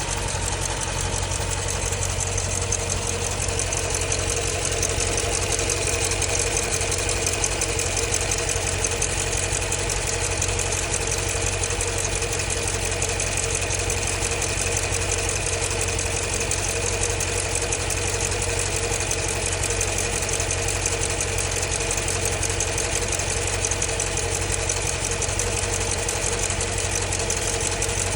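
The 6.4-litre Hemi V8 of a 2015 Jeep Grand Cherokee SRT idling steadily with a fast, even ticking, which the owner suspects is lifter tick.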